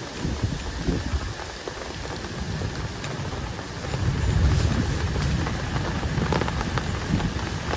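Heavy rain falling steadily, with scattered sharp drop clicks and a low rumble that swells about four seconds in.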